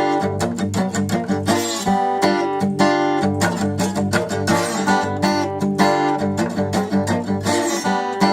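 Acoustic guitar played with a slide, strummed in a steady, rhythmic riff.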